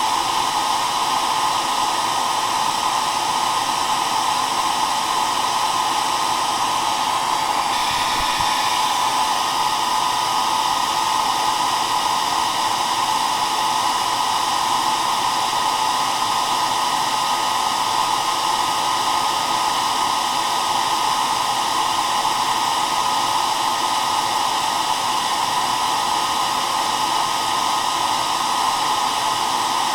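Hair dryer running steadily, an even rush of blown air strongest in the middle range with faint steady tones from its motor; the sound shifts slightly for a moment about eight seconds in.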